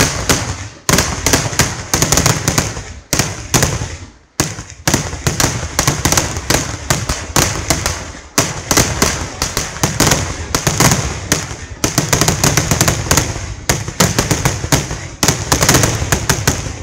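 Vedikkettu fireworks firing as a rapid, nearly continuous barrage of loud bangs, several a second, with a brief break about four seconds in.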